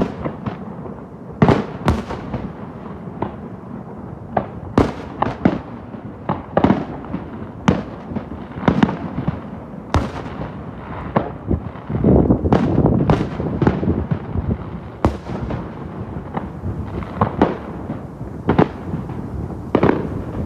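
Fireworks display: aerial shells bursting one after another at an irregular pace, each sharp bang trailing off in a rumbling echo, with a dense cluster of overlapping bursts about two-thirds of the way through.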